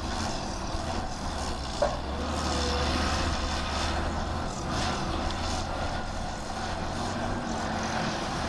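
Diesel engine of heavy earthmoving machinery running steadily, with a single sharp knock about two seconds in.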